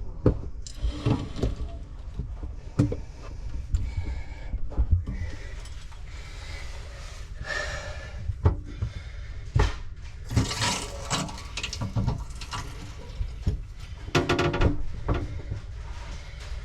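Irregular knocks, clicks and short spells of clatter over a steady low rumble. These are the sounds of hands and tools working on plumbing fittings, with two louder spells of clatter about ten and fourteen seconds in.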